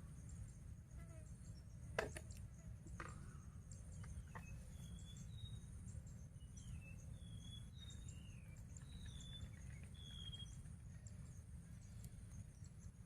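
Faint birdsong: a run of short whistled notes, some sliding down in pitch, over a low steady rumble, with a few sharp clicks in the first few seconds.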